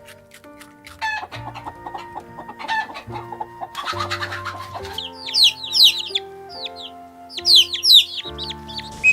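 Chickens clucking, loudest in two quick bursts of high calls about five and seven and a half seconds in, over background music with steady held notes.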